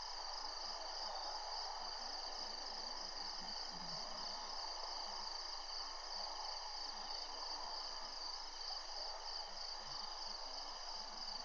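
Steady chorus of insects: a continuous high trill with faster pulsing calls just beneath it.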